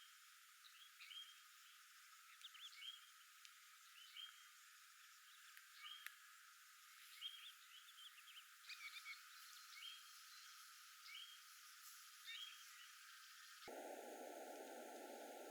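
Faint, short animal chirps, about one a second, over a quiet outdoor background. Near the end the chirps give way to a steady muffled hiss.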